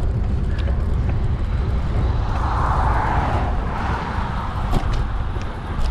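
Steady wind noise rumbling on the microphone while riding, with a passing vehicle's tyre and road noise swelling and fading about two to four seconds in.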